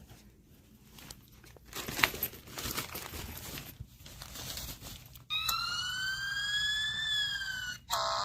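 Rustling and crinkling of handling noise, then about five seconds in the fire-truck tent's electronic siren button sounds a wail. The wail rises slowly, falls a little and cuts off near the end.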